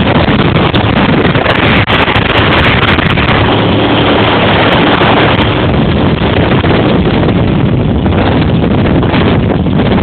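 Motorboat running at speed, its engine drone buried under loud, steady wind buffeting on the microphone.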